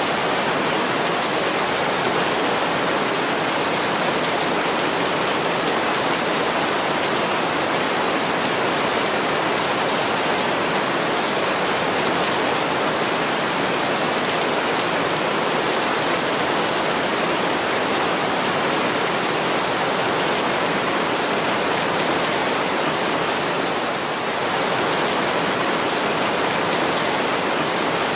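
Heavy rain falling on a window, a steady, even hiss with no breaks.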